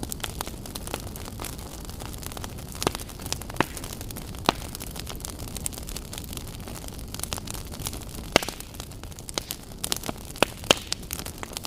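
Wood fire burning in a fireplace: a steady low rumble of flames with frequent sharp crackles and pops, a few louder snaps about three, four and a half, eight and ten to eleven seconds in.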